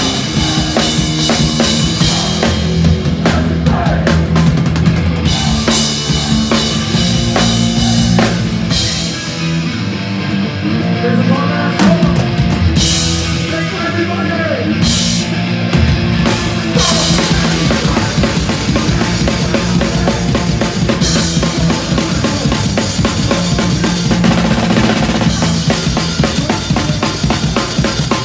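Live hardcore punk band playing loud and fast: a pounding drum kit with bass drum, snare and cymbals under distorted guitars and bass. About halfway through, the cymbals and deep bass drop out for several seconds before the full band comes back in.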